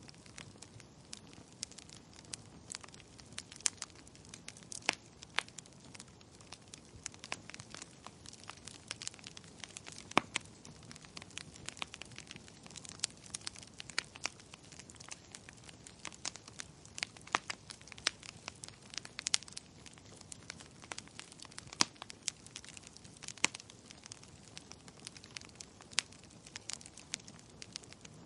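Wood fire crackling in a fireplace: irregular sharp pops and snaps, several a second and some much louder than others, over a soft steady hiss.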